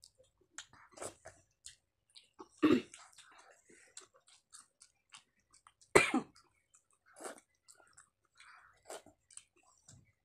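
Close-up eating sounds from people eating rice, fried vegetables and fried small fish by hand: wet chewing and lip smacks as scattered short clicks, with two louder mouth sounds about two and a half and six seconds in.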